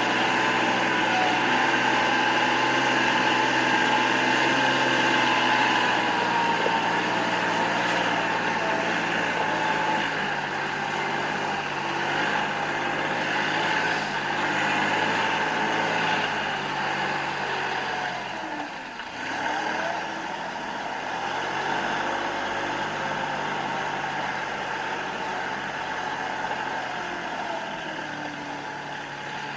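Kubota L3560 tractor's diesel engine running steadily as the tractor drives along in its high 'rabbit' range. The engine note dips briefly about two-thirds through, and the sound grows somewhat fainter toward the end.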